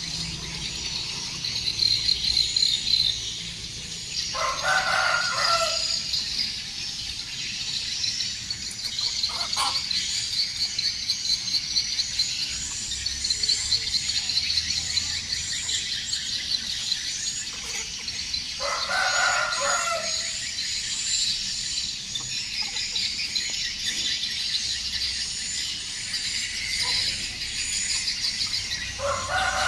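Farm chickens: a rooster crows three times, roughly ten seconds apart, over a steady, dense, high-pitched chirping.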